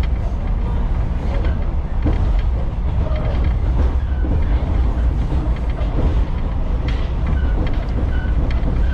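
Echizen Railway railcar running at speed, heard from inside the car: a steady low rumble of wheels and running gear, with scattered clicks from the rails.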